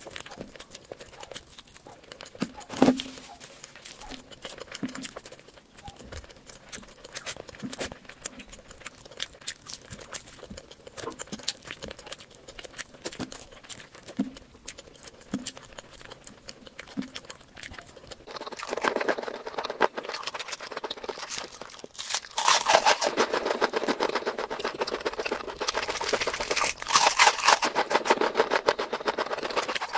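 Close-miked eating sounds: chewing with small wet mouth clicks, growing much louder and denser, with rapid crackling, about two-thirds of the way through.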